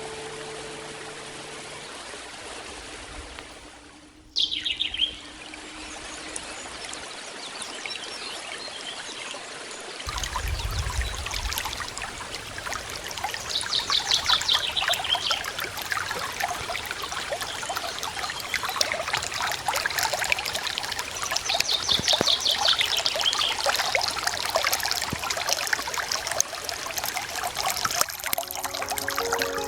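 River water trickling and babbling, louder from about ten seconds in, with birds singing over it: a short falling call a few seconds in and two quick trilled phrases later.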